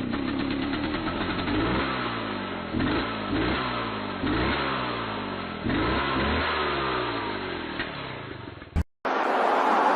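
Vehicle engine accelerating hard through the gears: its pitch climbs, drops back at each shift, and climbs again, four or five times. It cuts off abruptly about nine seconds in.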